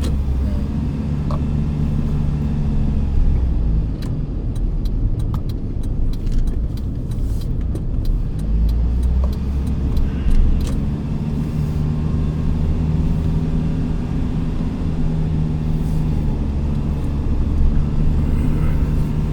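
A motor vehicle running: a steady low engine rumble with a low hum, easing a little for a few seconds near the middle, and scattered light clicks.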